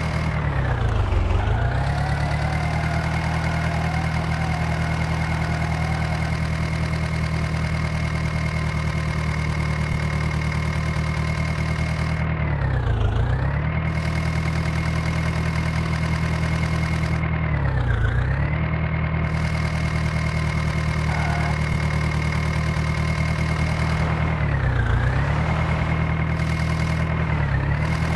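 Swaraj tractor's diesel engine running steadily, its pitch dipping and climbing back up within a second or two several times.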